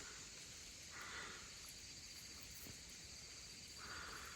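Faint forest ambience: a steady high drone of insects, with two soft faint rustles about a second in and near the end.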